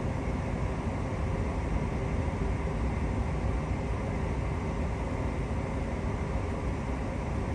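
Queensland Rail electric suburban train running between stations, heard from inside the carriage: a steady low rumble of wheels on track with a faint steady hum.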